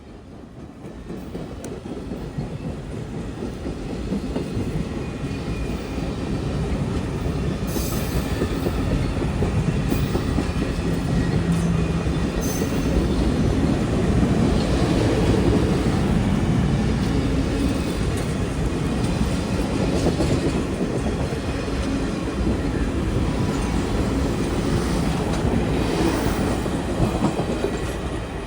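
Freight train rolling past, its cars' wheels clicking over the rail joints; it swells over the first few seconds and then stays loud and steady.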